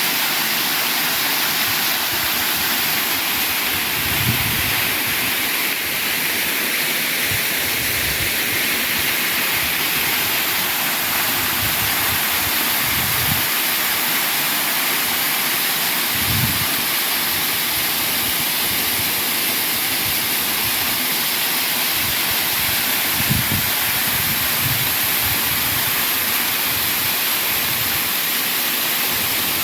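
Waterfall: a steady, unbroken rush of falling water, with a few soft low thumps now and then.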